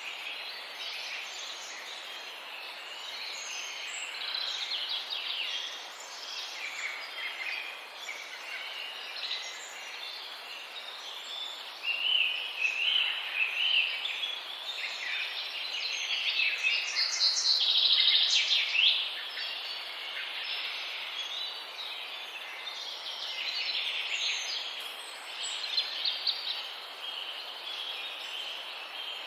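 A chorus of many birds chirping and calling over one another without a pause, growing louder and busier for a few seconds a little past the middle.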